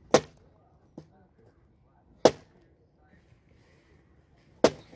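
Fiskars X11 splitting axe striking firewood logs: three sharp, loud chops about two seconds apart, with a faint knock between the first two.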